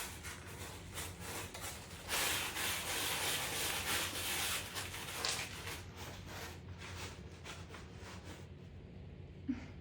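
Scratchy rubbing and rustling, in many short strokes, loudest from about two to five seconds in and then dying down, with a brief squeak near the end.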